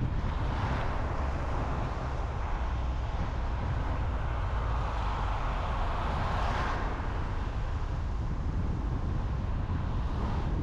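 A car driving on the road: a steady low rumble with tyre and wind noise, the hiss swelling about a second in and again around six seconds.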